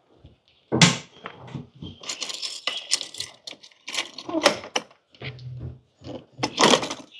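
Metal rattling and irregular knocks of a stuck electricity meter box door or latch being tugged at, which will not open.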